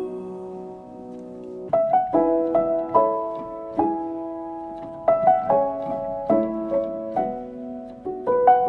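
Instrumental piano passage of a song with no vocals: notes struck in quick rising groups every second or so, each ringing on and fading before the next group.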